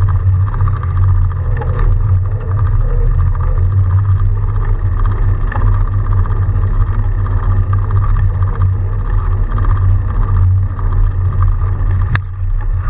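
Steady low rumble of a fat bike being ridden through snow, with one sharp click near the end.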